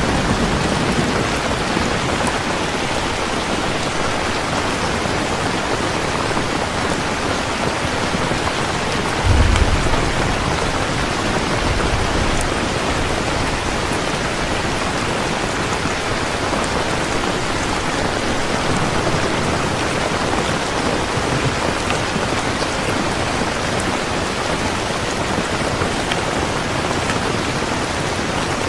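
Heavy rain falling steadily, with a short low rumble of thunder about nine seconds in.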